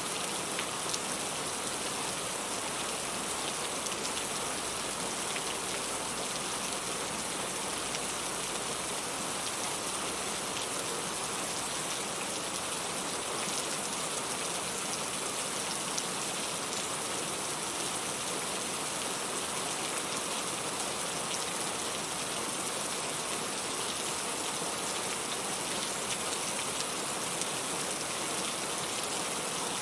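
Steady rain falling, an even hiss with many small drop patters scattered through it, holding the same level throughout.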